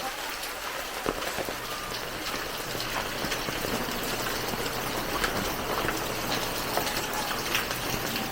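Heavy rain falling: a steady hiss with many small drop hits scattered through it.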